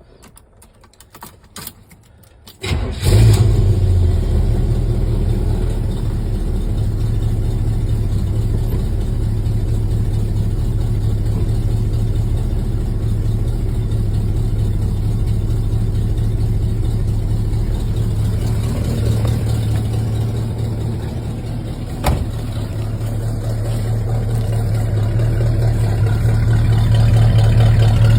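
A 1969 Chevrolet Camaro's 350 V8 starts up about three seconds in, then runs at a steady idle. There is a sharp click about 22 seconds in, and the engine note swells slightly near the end.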